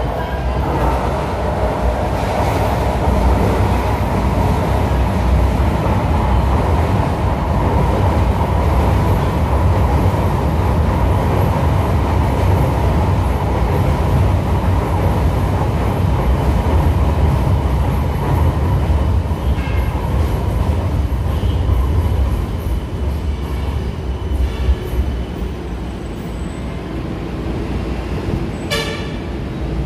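MRT-3 Dalian-built light rail train pulling into the station: a steady loud rumble of wheels and motors that eases over the last several seconds as it comes to a stop. A short high-pitched sound comes near the end.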